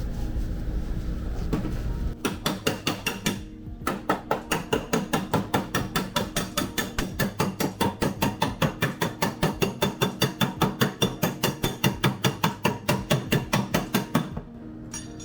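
Rapid, evenly paced hammer blows on car-body sheet metal, about four or five strikes a second, starting about two seconds in, with a short break and stopping just before the end. A low hum comes before the hammering.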